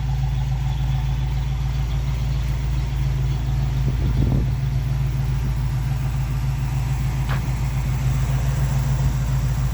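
Ford 302 small-block V8 with dual exhaust idling steadily, an even low hum.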